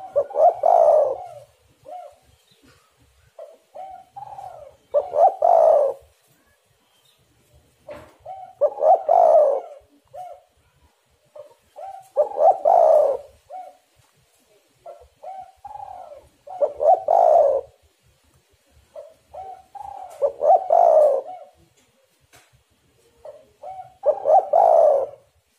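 Spotted dove (tekukur) cooing its song over and over: each phrase is a few short soft notes followed by a louder, longer coo, repeated about every four seconds, some seven times.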